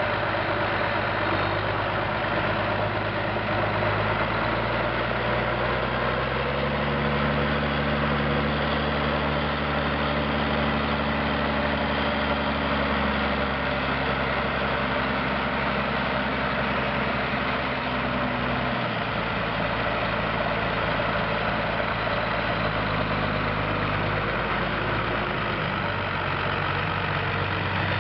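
Zetor 16145 tractor's six-cylinder diesel engine running steadily while pulling a mounted plough. Its pitch steps up about a quarter of the way in and drops back about two-thirds through, as the engine's speed and load change.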